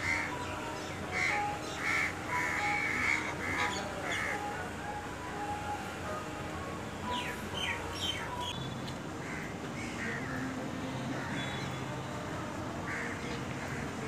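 Birds calling outdoors: a run of short repeated calls in the first four seconds, then a few quick chirps about seven to eight seconds in.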